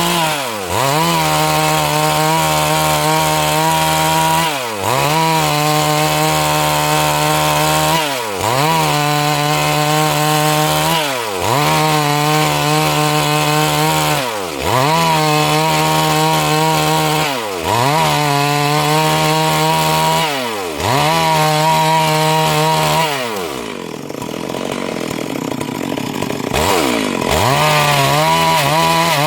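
Stihl MS 382 two-stroke chainsaw running at high speed while ripping a Siris log lengthwise into boards. Its pitch dips sharply and recovers about every three seconds. A few seconds before the end it drops lower and rougher, then climbs back to a steady high pitch.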